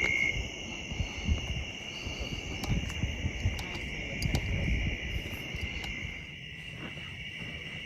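Night insect chorus: a steady, high-pitched drone, with low rustling and bumps underneath.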